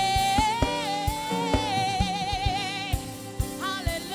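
Gospel worship singing: a voice holds one long note with a wavering vibrato over the band's steady low notes and an even drum beat, then starts a new phrase near the end.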